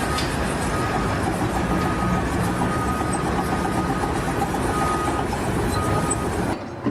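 A heavy vehicle's engine running, with a reversing alarm beeping at intervals over it; the sound cuts off abruptly near the end.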